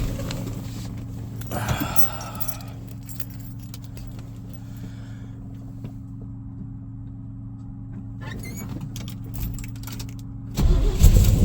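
Keys jingle and click at the ignition over a steady low hum. About ten seconds in, the restored classic car's engine starts from cold and runs loudly.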